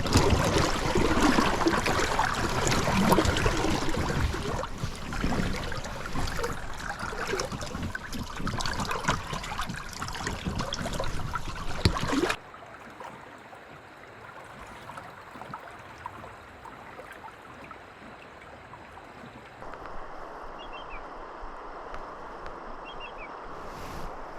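River water splashing and gurgling close by, full of small splashes and knocks, for about the first twelve seconds. Then it cuts off suddenly to a quieter, steady flow of water, with two faint high chirps near the end.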